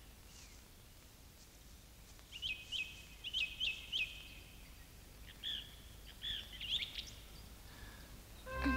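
Birds chirping: a run of quick chirps about two seconds in, then another group of chirps around the middle, faint against a soft outdoor background.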